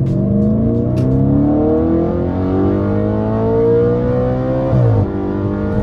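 Audi RS5's V8 accelerating hard, heard from inside the cabin. The engine note climbs steadily for nearly five seconds, drops sharply at a gear change, then pulls again.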